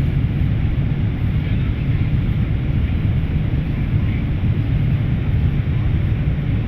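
Airliner cabin noise heard from a passenger seat: the jet engines and the rush of air over the fuselage running steadily as a deep, even hum.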